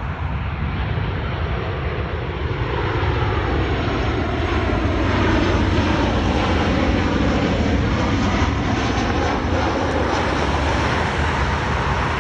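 Jet airliner's engines on landing approach, a rushing roar that swells about three to four seconds in as the plane passes close and stays loud, with a faint sweeping change in pitch as it goes by.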